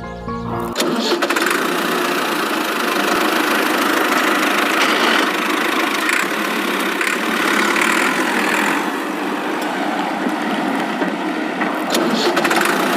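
A motor vehicle engine starts abruptly about a second in and runs steadily, with a couple of sharp clicks near the end.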